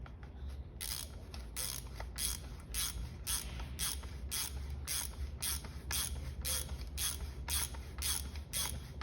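Ratchet wrench being worked back and forth, a steady run of sharp clicks about two to three a second starting about a second in, as a motorcycle front fork part is turned down.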